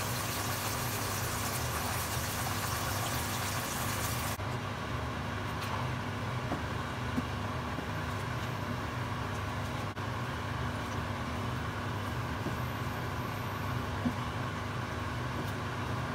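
Breaded chicken cutlets sizzling in hot frying oil for about four seconds, over a steady low hum. The sizzle then cuts off and quieter pan noise follows, with a few faint clicks from a spatula stirring a pan of rice.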